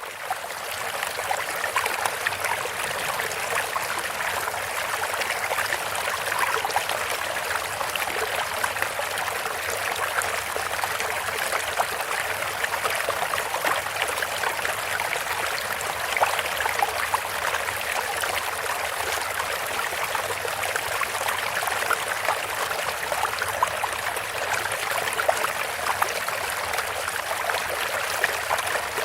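Bamboo water fountain: a steady trickle of water splashing, with many tiny droplet plinks. It fades in over the first second, then keeps on without change.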